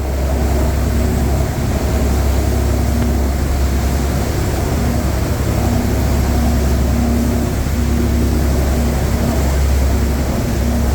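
Boat engine running steadily: a deep, even drone with a fainter hum that comes and goes, over a hiss of wind and water.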